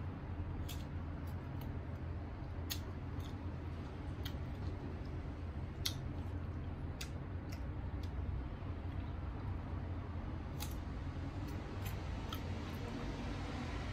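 Close-up chewing of crisp, sour green mango: sharp crunching clicks at irregular intervals over a steady low hum.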